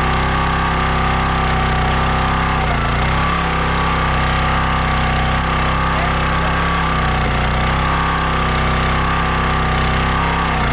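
Kohler 6.5 HP single-cylinder engine of a CountyLine 25-ton gas log splitter running steadily, its pitch dipping briefly twice.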